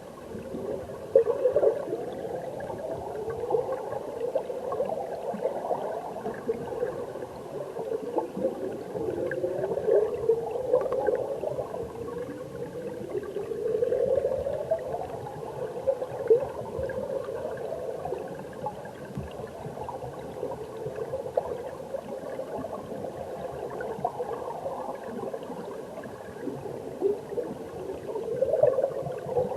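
Mountain stream water heard underwater: a continuous muffled gurgling of flowing water and bubbles, with rising swells every few seconds and scattered small clicks.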